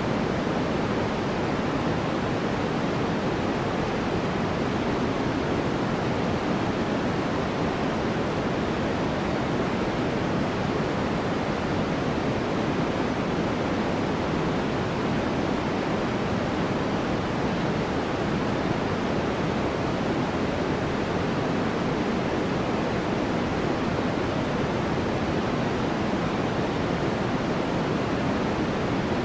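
Steady white noise for sleep: an even, unchanging hiss with no breaks, weighted toward the lower, deeper part of the range.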